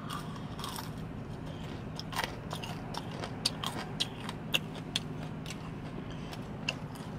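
Close-up chewing of crisp fried food, a string of small sharp crunches and crackles. A steady low hum runs underneath.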